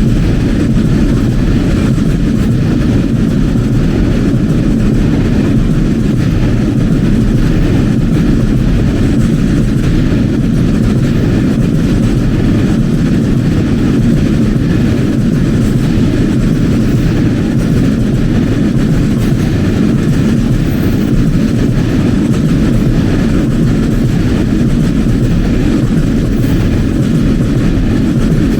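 A train running past on the track, a loud steady low rumble that holds without let-up.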